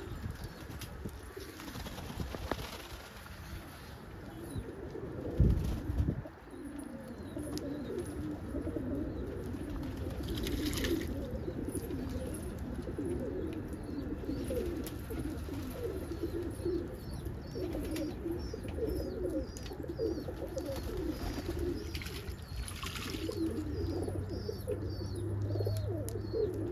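Several domestic roller pigeons cooing, their warbling coos overlapping without a break. There is a single low thump about five seconds in.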